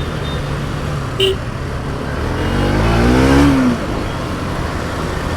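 Motorcycle ride through city traffic: steady engine and road noise, with a vehicle engine revving up, rising in pitch and growing louder from about halfway, then dropping off. A short high beep sounds about a second in.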